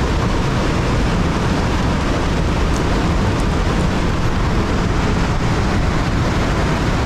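Steady roar of a waterfall's rushing water, loud and unbroken.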